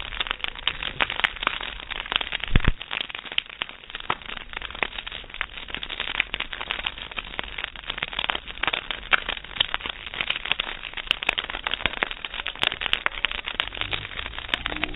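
Campfire wood burning, crackling with dense, irregular snaps and pops, and one louder low thump about two and a half seconds in.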